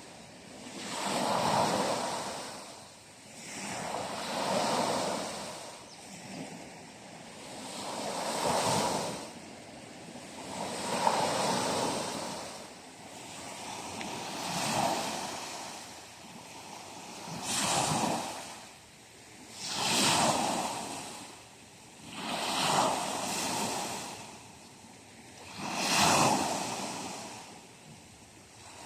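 Sea waves washing in and drawing back, a rushing that swells and fades about every three seconds.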